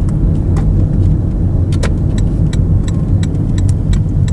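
Car interior while driving: steady low engine and road rumble. From about halfway through comes a quick run of light, evenly spaced ticks, roughly three a second.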